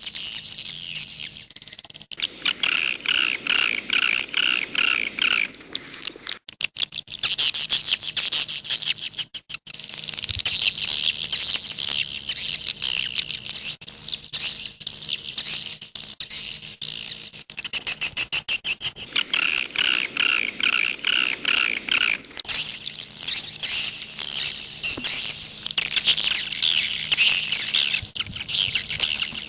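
Swiftlets twittering: dense, rapid, high chirping calls that run on without a break, with evenly repeated chirp phrases at times.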